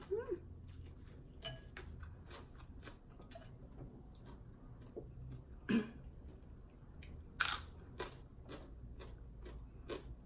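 Close-miked chewing of food, with many small crunches and mouth clicks and a few louder crunchy bites.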